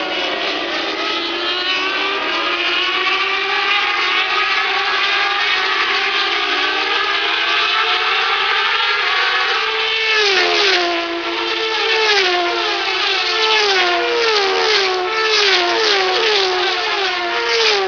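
Turismo Carretera race car's six-cylinder engine at high revs, its pitch climbing steadily for about ten seconds. About ten seconds in the pitch drops sharply, then rises and falls again and again in quick swings through to the end.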